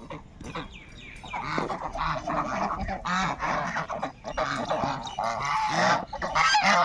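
A flock of birds calling together, many overlapping calls, growing louder and denser about a second and a half in.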